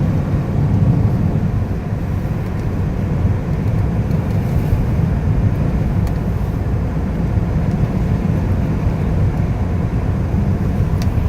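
Steady low rumble of a car driving, heard from inside the cabin: engine, tyre and wind noise on a wet winter road.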